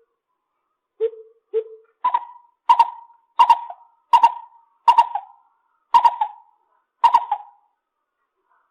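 Lesser coucal calling: two low hollow notes, then a series of seven higher hooting notes that come gradually further apart.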